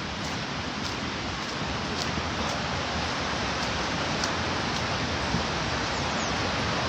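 River rapids rushing: a steady, even noise of fast-flowing water that grows slightly louder.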